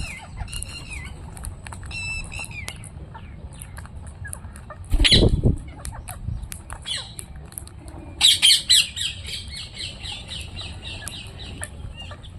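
Parrots squawking and chattering, with repeated sharp calls, a loud burst about five seconds in, then a run of loud squawks about eight seconds in that turns into rapid chatter.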